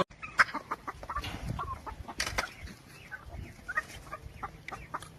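Faint short calls of domestic fowl, with scattered light clicks and taps.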